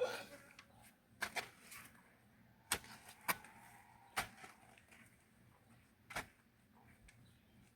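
A metal digging tool striking and scraping soil by hand: about seven sharp knocks at irregular intervals, against a quiet background.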